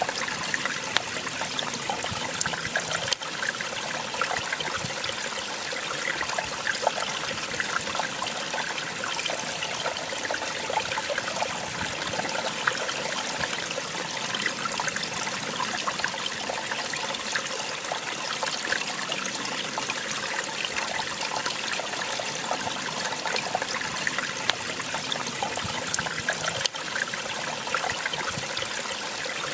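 Small waterfall: water splashing and trickling steadily over rocks, an even rushing with no change.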